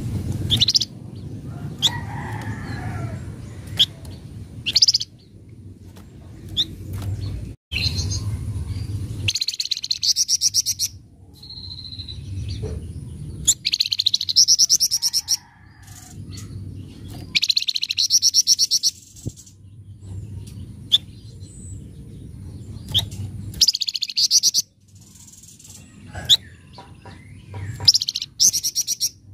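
Flamboyan (wergan Jawa) songbird giving harsh, rapid chattering trills in bursts of a second or two every few seconds, with short sharp chirps in between. This is the rough 'crewet' chatter used as a lure recording to set other birds singing. A low steady hum runs underneath.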